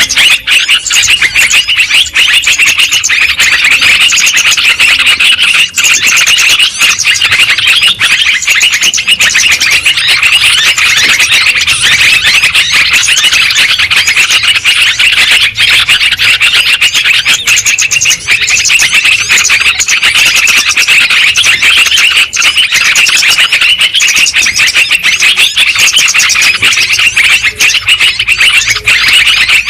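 Sooty-headed bulbuls singing and chattering in a dense, unbroken stream of loud calls.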